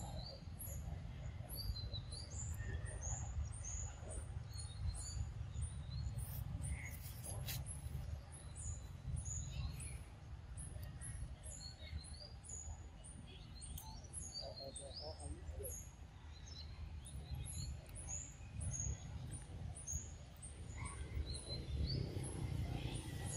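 Woodland ambience: small birds chirping in short high calls, about two a second, over a steady low rumble.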